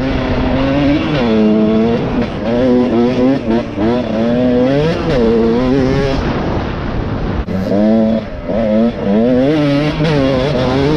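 Motorcycle engine revving up and down over and over under throttle, its pitch climbing and falling roughly every second, with a brief drop in level about seven and a half seconds in.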